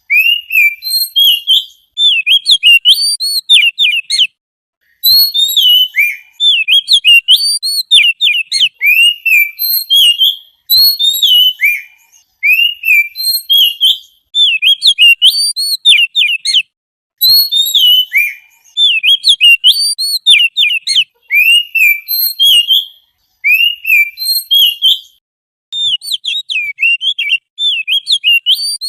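A songbird singing fast phrases of sharp, swooping whistled notes, in bursts of a few seconds broken by short pauses.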